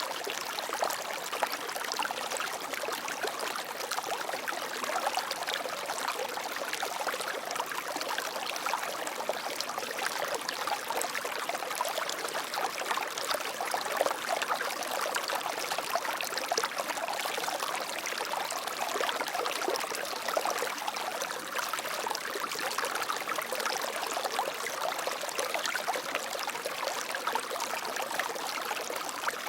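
Flowing water running steadily, with a fine trickling, splashing texture.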